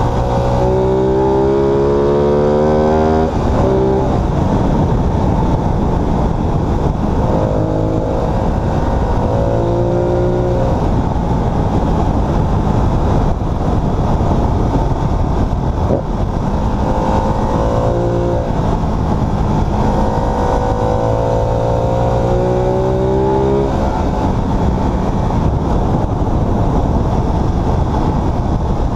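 Ducati Multistrada 1200 S's V-twin engine under acceleration on the road, rising in pitch several times and dropping back at each upshift, over steady wind and road noise.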